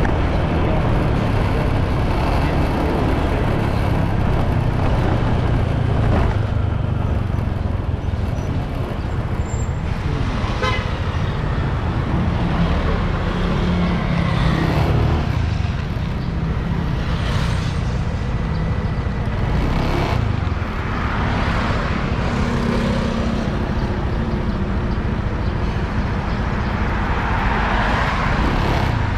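Motorbike engine running while riding along a road, its pitch shifting with speed, as several other vehicles pass by in turn.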